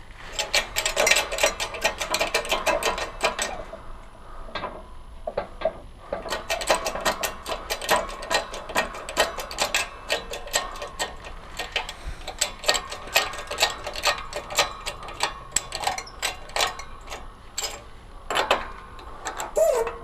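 Rapid, even metallic clicking with a light ring, in two long runs with a short pause between, as a new wheel bearing is pressed into a scooter wheel rim with a 19 mm socket as the driver.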